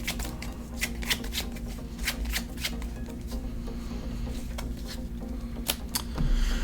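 Trading cards being handled and shuffled: a run of crisp, irregular card clicks and flicks.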